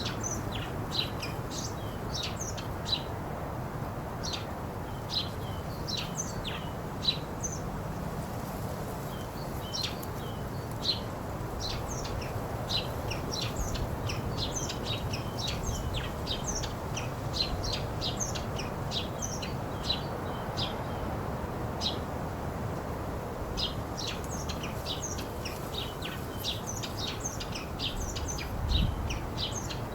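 Songbirds chirping in many short, quick calls over a steady wash of ocean surf.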